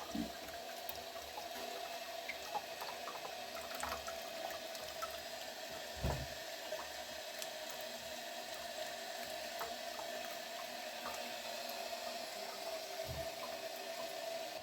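Water running steadily while dishes are washed with a scouring pad, with a dull knock about six seconds in and another near the end.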